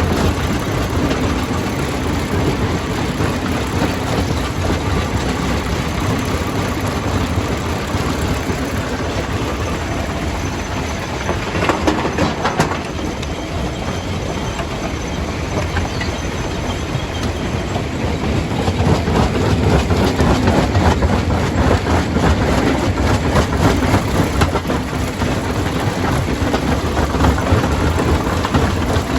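Stone crusher running and crushing rock: a dense, steady rumble with continuous rattling and clatter. There is a brief louder crash of rock about 12 seconds in, and the noise grows somewhat louder after about 18 seconds.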